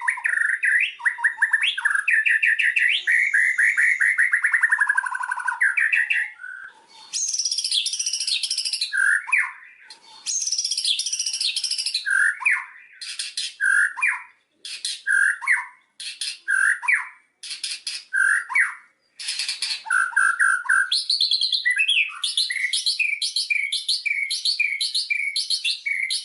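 White-rumped shama (murai batu) singing a long, varied song. Rich whistled phrases, a falling run of notes early on, are mixed with fast, high, rattling trills and single repeated notes, with short breaks between phrases. Near the end it shifts to a quick series of repeated notes, about three a second.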